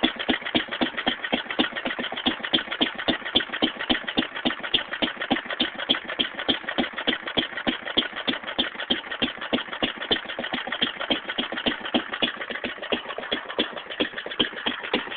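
Fairbanks-Morse Z Style D 1½ hp hit-and-miss engine running, giving a quick, even beat of exhaust pops and clatter.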